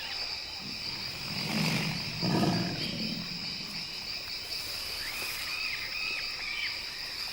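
A steady chorus of crickets and other insects. A low animal growl comes through about one and a half to three seconds in, and a few short chirping calls follow about five seconds in.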